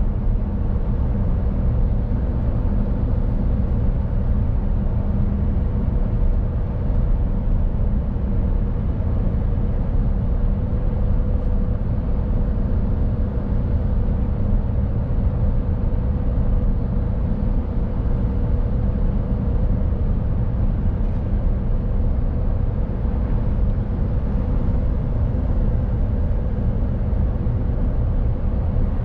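Mercedes Actros truck on the move: a steady low diesel rumble mixed with road noise, with a constant mid-pitched hum over it.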